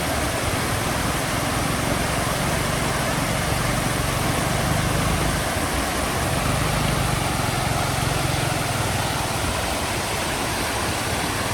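A vehicle engine running steadily under a continuous rushing noise, its low hum swelling and easing off a couple of times.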